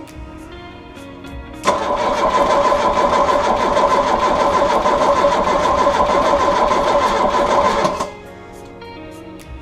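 VW Golf GTI Mk2 engine being cranked by the starter for about six seconds, a fast even chugging that starts about two seconds in and cuts off suddenly without the engine catching and idling. Background music plays throughout.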